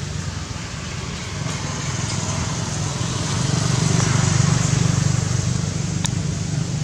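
A motor engine running steadily, growing louder a few seconds in and easing off slightly near the end.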